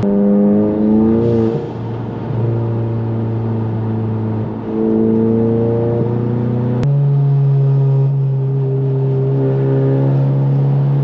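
Turbocharged 2.0-litre four-cylinder of an IS38-swapped MK7 Golf GTI running under way, rising in pitch for about a second and a half, then dropping and holding a steady drone. The note changes abruptly about seven seconds in.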